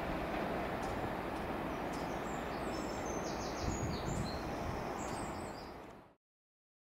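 Steady rumble of a Class 37 diesel-hauled test train moving away, with birds chirping over it from about two seconds in. The sound fades away near the end.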